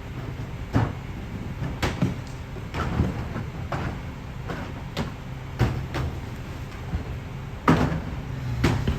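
Peterbilt 520 rear-loader garbage truck running with a steady low engine hum, under a string of sharp knocks and bangs about once a second, the loudest near the end.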